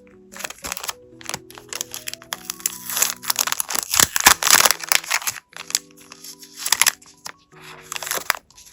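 Crinkling and rustling of flake stickers and their plastic pack being handled and peeled, in irregular crackly bursts that are loudest near the middle. Soft background music with held tones plays underneath.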